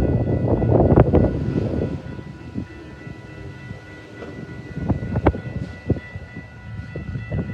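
Passing train: a loud low rumble with knocks for about the first two seconds, then quieter rolling with scattered sharp clicks.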